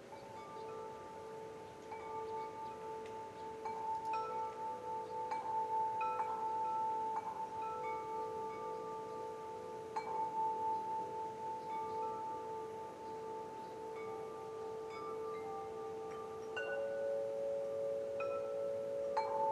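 Wind chimes ringing, their tubes struck irregularly every second or so, several long tones overlapping and wavering as they ring on.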